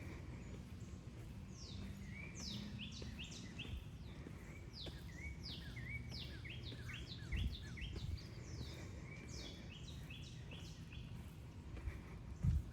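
A songbird singing three phrases of quick, falling whistled notes over a steady low outdoor rumble. There are two dull thumps, the louder one near the end.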